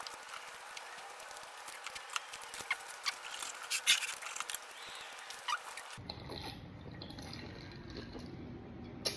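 Someone eating a plate of steak and fries: scattered small clicks and clinks of cutlery with chewing. About two-thirds of the way in, the sound switches abruptly to a steady low hum.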